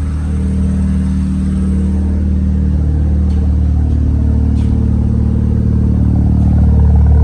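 Mazda RX-7 FD3S's 13B twin-rotor rotary engine running steadily, freshly refilled with oil and checked after an oil change, getting slightly louder near the end.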